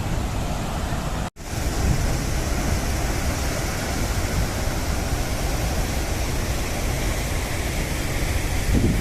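Steady rushing of a large waterfall in full monsoon flow, with a heavy, unsteady low rumble underneath. The sound drops out abruptly for a split second about a second in, then carries on.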